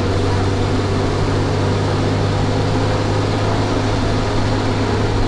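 Van Hool A320 city bus heard from inside the passenger cabin, its engine running at a steady speed with an even low drone and no change in pitch.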